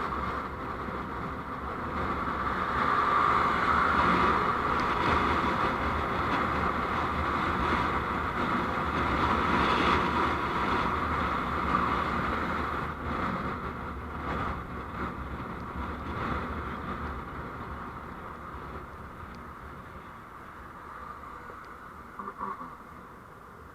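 Steady road and engine noise of a moving vehicle picked up by a dashcam microphone, fading away over the last several seconds.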